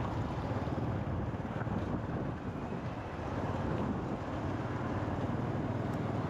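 Motorcycle running at riding speed, with wind buffeting the microphone.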